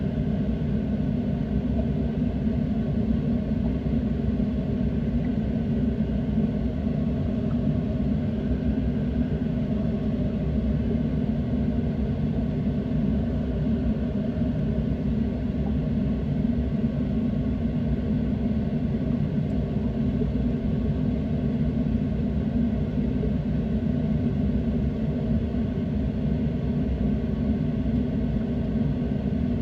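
Boat engine running steadily, a low even drone that does not change in pitch or loudness.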